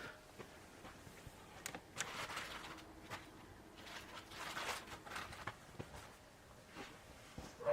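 Faint rustling with scattered light clicks and knocks from camping gear being handled.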